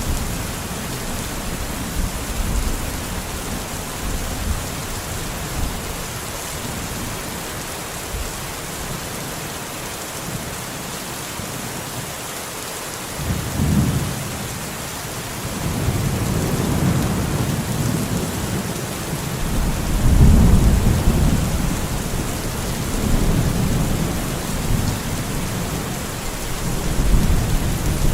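Steady rain with rolling thunder: a short low rumble about halfway in, then longer rumbles, the loudest about three quarters of the way through.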